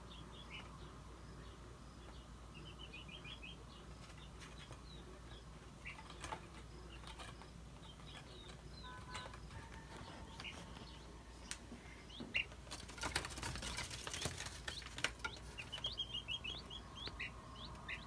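Faint high chirps and peeps from small birds, some in quick runs of several notes, with a short burst of wing flapping about two-thirds of the way through.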